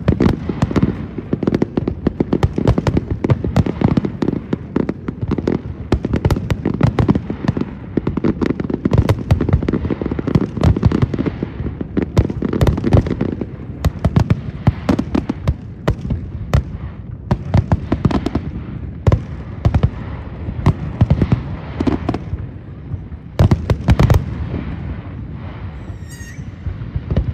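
Fireworks display: a rapid, dense run of shell bursts and crackling that thins out a little near the end, with a brief wavering high whistle shortly before the end.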